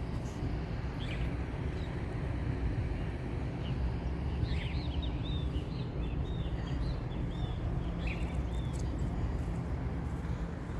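Small birds chirping in quick, short calls, thickest in the middle, over a steady low rumble.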